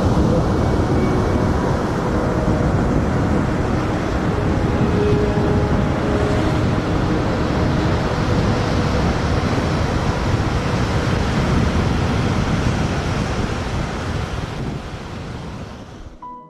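Ocean surf: a steady, dense rush of breaking waves, heavy in the low end, fading out over the last two seconds or so.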